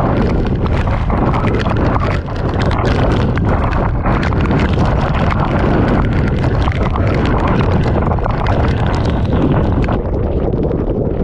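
Typhoon eyewall wind roaring and buffeting the microphone, with torrential rain and spray lashing down; a loud, continuous rumbling rush.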